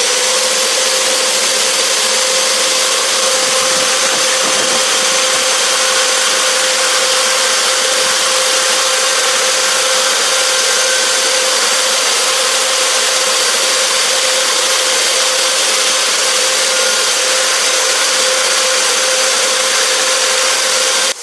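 A machine running steadily: a constant motor whine over a strong hiss, unchanging throughout and cut off abruptly at the end.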